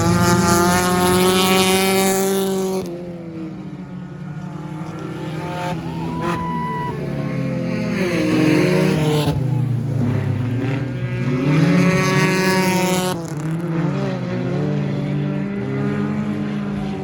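Stock car engines racing past on the track, with two loud passes: one at the start and a longer one in the middle, and a steady drone of other cars between them.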